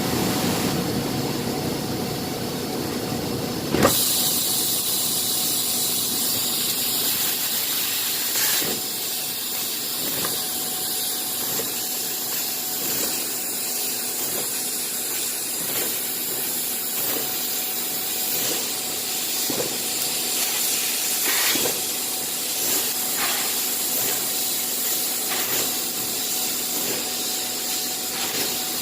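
Bystronic CNC machine running: a steady hiss with faint steady whine tones, a sharp click about four seconds in where the sound changes, then occasional soft knocks.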